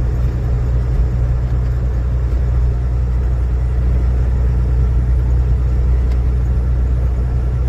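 Steady low rumble of a vehicle driving, heard from inside the cabin: engine and road drone with no breaks.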